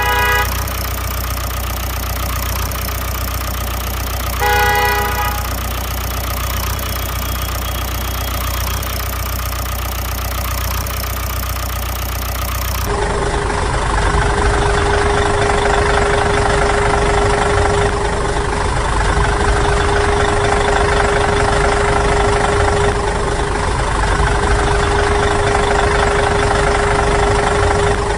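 Two short horn honks over a steady engine hum, then, about halfway through, the sound switches suddenly to a different engine running steadily with a steady whine.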